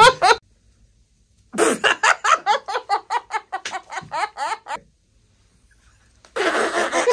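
A person laughing in two bouts: a run of quick, even 'ha-ha' pulses, about four a second, for some three seconds, then a breathier burst of laughter near the end.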